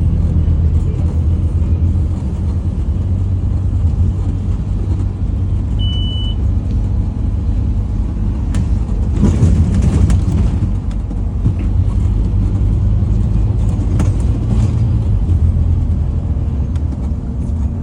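Scania N230UD Omnicity double-decker bus's diesel engine running with a steady low rumble as the bus drives, heard on board. A short high beep sounds about six seconds in, and a brief burst of hiss comes around nine to ten seconds.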